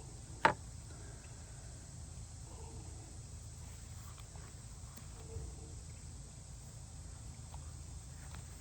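A single sharp knock about half a second in, followed by a few faint ticks and small handling sounds over a steady low hum.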